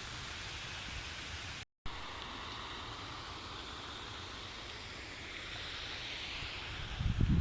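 Steady rushing of a river's water. Near the end, low gusts of wind buffet the microphone.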